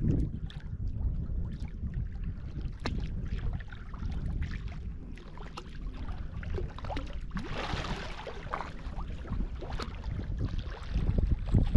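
Water sloshing and splashing around a kayak, over a steady low rumble, with scattered small clicks and knocks. There is a louder splashy burst of noise about eight seconds in.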